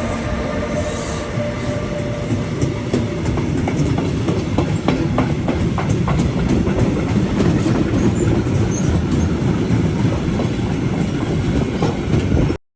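A train running through the station at close range, its wheels clacking over rail joints in a quick run of clicks midway through. The sound cuts off suddenly near the end.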